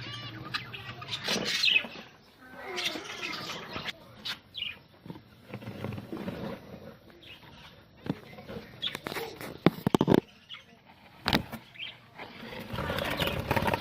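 Budgerigars chirping and chattering, with a few sharp knocks about ten and eleven seconds in and a rustling noise near the end.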